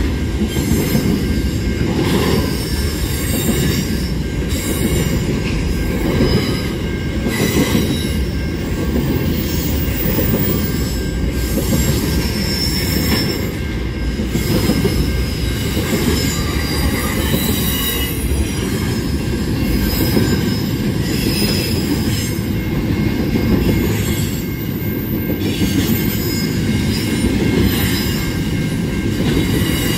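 Freight train's double-stacked container wagons rolling past close by: a steady heavy rumble of steel wheels on rail, with high wheel squeal coming and going.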